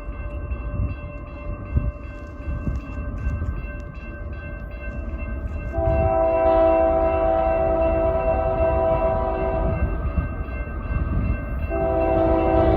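A GE freight locomotive's air horn sounds a chord of several notes. It begins about six seconds in, holds for about four seconds, stops, and starts again near the end. Under it runs the low rumble of the train coming at speed.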